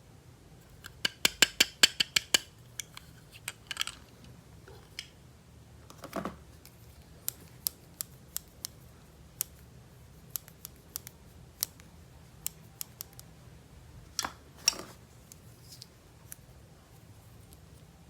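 Toy packaging being cut and handled: a fast run of about a dozen sharp snips about a second in, then scattered single clicks and two brief rustles.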